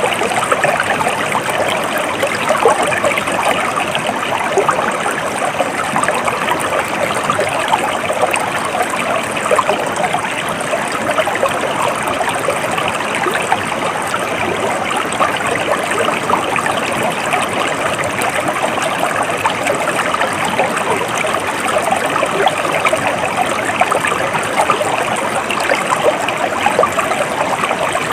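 Water of a stream flowing steadily, an even, unbroken rush of running water.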